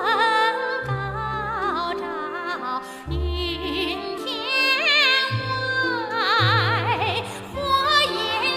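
Operatic-style singing with wide vibrato over an instrumental accompaniment with sustained bass notes, a song in the style of a Chinese revolutionary song.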